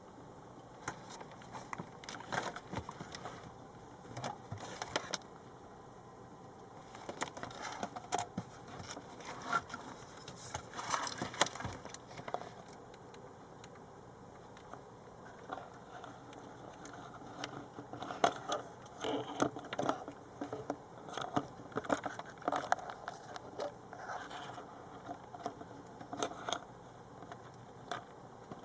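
Irregular clicks, taps and scrapes of small hard objects being handled, in clusters with short lulls between them.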